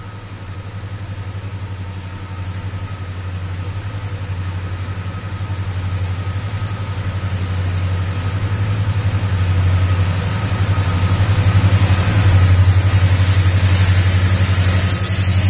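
Goods train locomotive approaching and passing beneath, its steady low engine drone growing louder throughout. A rushing noise builds over it near the end as the train comes below.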